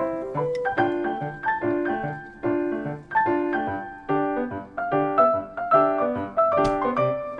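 Background piano music: a light melody of struck notes over a steady repeating bass pattern.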